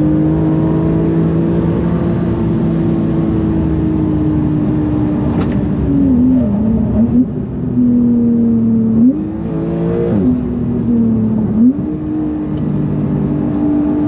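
Porsche 991.2 GTS's twin-turbocharged flat-six, fitted with bigger turbos, running hard at high revs. The engine note holds steady for the first half, then dips and climbs again several times in the middle before holding high once more.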